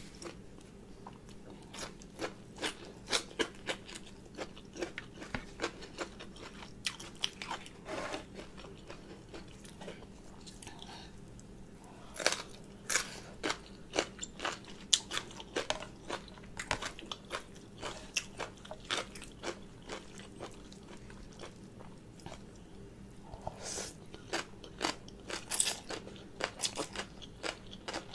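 A person chewing crunchy food close to the microphone, mouthfuls of papaya salad and vegetables: many crisp crunches and wet chewing sounds at an irregular pace. The loudest bites come about twelve to fifteen seconds in and again near the end.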